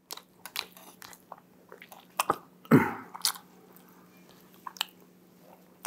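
A man chewing food close to a clip-on microphone, with scattered light clicks of a steel spoon against steel bowls and one louder mouth noise nearly three seconds in.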